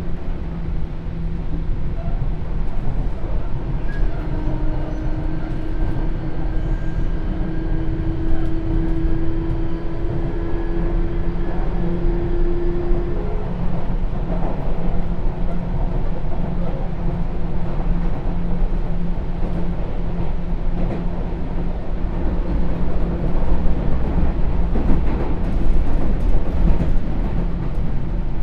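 Sotetsu New 7000 series electric train running, heard from on board with a heavy steady rumble of wheels on track. Its Hitachi GTO inverter whine rises slowly in pitch and stops about 13 seconds in, after which the rumble carries on alone with some rattling.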